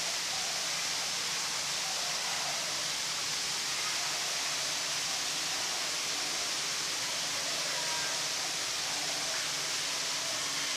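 A steady, even hiss, strongest in the high range, with no distinct events.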